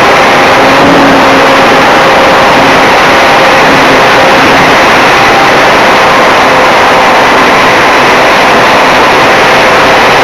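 Art-Tech RC Cessna 182's brushless electric motor and propeller running steadily in flight, a faint steady whine under loud rushing wind on the onboard camera's microphone.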